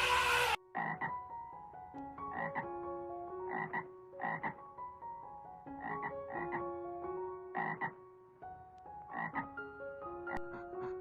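A frog croaking in short repeated calls, roughly one a second, over light background music of plucked or mallet-like notes.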